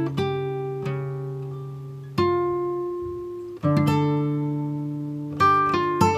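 Background music: a plucked acoustic guitar playing slow, ringing chords and single notes, each struck and left to fade.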